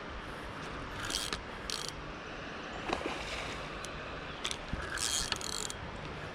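Fishing reel clicking in several short ratchet-like bursts, line going out or being wound in while a hooked carp is fought, over a steady background hiss.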